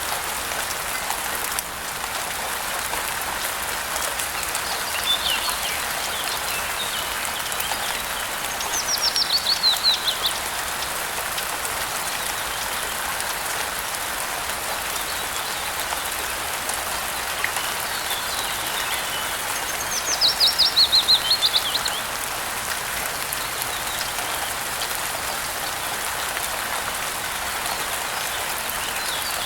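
Steady hiss of falling rain. A songbird sings twice, about nine and twenty seconds in, each time a quick two-second trill of notes running downward in pitch; these are the loudest sounds. A few fainter chirps come between them.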